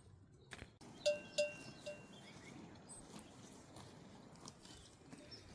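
A livestock bell clanking three times in quick succession, each strike ringing briefly, over faint background noise.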